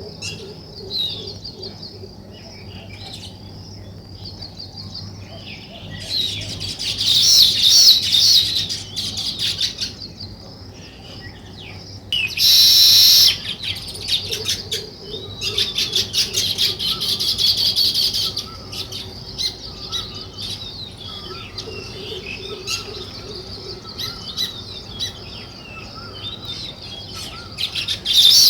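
Sparrows chirping: many short, high chirps in overlapping bursts, growing into dense, louder chattering twice. A brief loud rustling burst about twelve seconds in.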